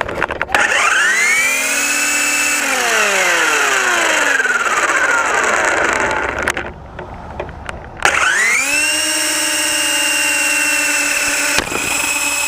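RC helicopter's motor and rotor spinning up with a rising whine, winding down again, then restarting abruptly about eight seconds in and holding a steady pitch. It is carrying a GoPro Hero 3 that the owner suspects is too heavy for it to lift.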